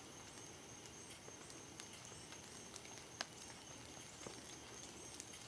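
Faint outdoor background: a steady low hiss with small high chirps and scattered light ticks, and one sharper click about three seconds in.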